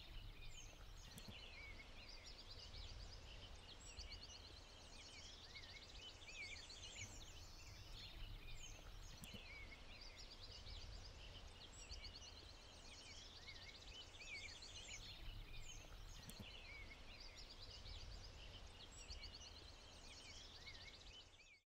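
Faint outdoor ambience of songbirds chirping and trilling over a low steady rumble, cutting off abruptly near the end.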